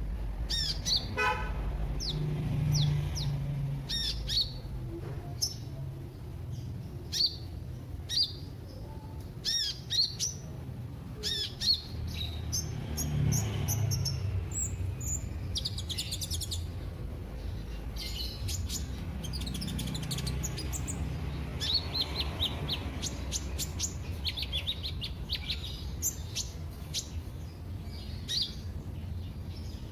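Small birds calling: many short, high, sharp chirps and brief twitters at irregular intervals, over a low steady rumble.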